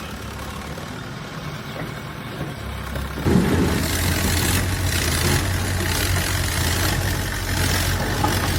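Diesel engine of a heavy construction machine idling, then picking up abruptly about three seconds in and running louder and steady with a broad rushing noise over its low hum.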